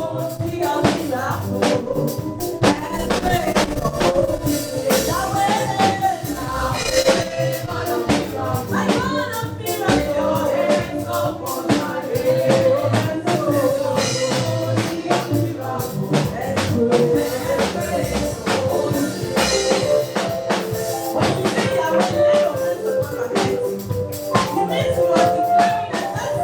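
Live gospel praise music: a band with drum kit playing a steady beat under singing voices.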